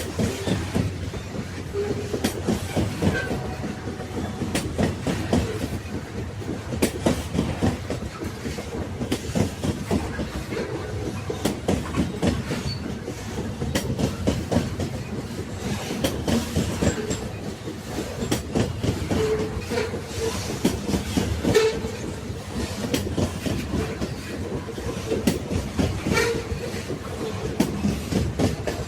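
Railway carriages rolling along the track: a steady rumble with a continual, irregular clatter of wheels knocking over the rail joints.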